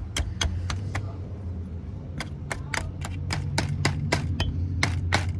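Hand tool working on a scrap transformer, making sharp, regular clicks: a few at first, then about four a second from two seconds in. A steady low hum runs underneath.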